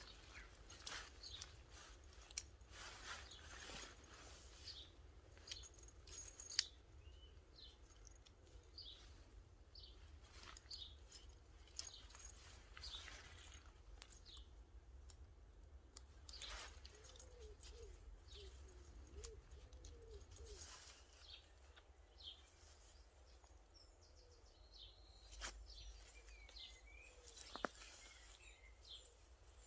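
Faint woodland birdsong: scattered short, high chirps and calls throughout, with a lower wavering call in the middle. A few sharp clicks stand out, the loudest about six and a half seconds in and again near the end.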